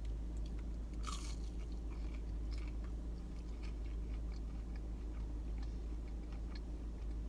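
A person bites into a breaded chicken nugget dipped in barbecue sauce and chews it, with one crisp bite about a second in and small chewing clicks after, over a steady low hum.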